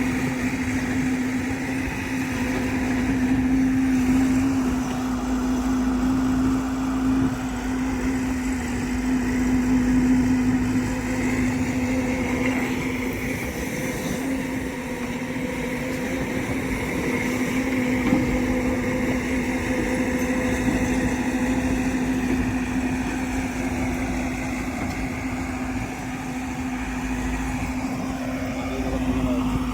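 Heavy diesel engine running steadily at an unchanging speed, holding one constant droning note.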